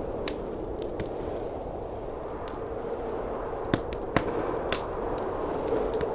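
Wood fire crackling in a fireplace: scattered sharp pops, three louder ones in quick succession about two thirds of the way through. Underneath runs the steady roar of blizzard wind.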